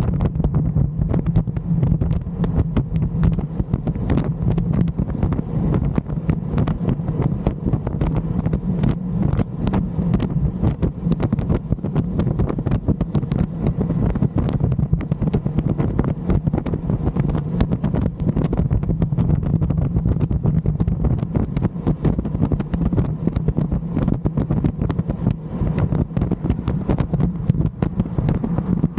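Loud, rough wind buffeting the microphone of a moving electric motorcycle, continuous with no engine sound: the bike runs quietly and only the wind is heard.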